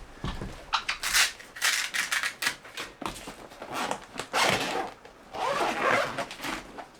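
Rummaging through gear: irregular rustling, rubbing and light clattering as items are handled and moved, busiest about a second in and again from about four to six seconds in.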